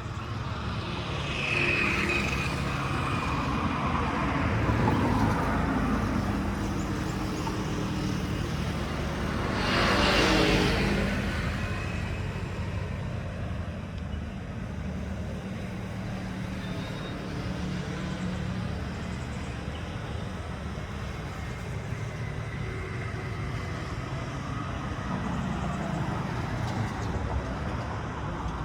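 Road traffic: motor vehicles running steadily, with one passing close and loudest about ten seconds in.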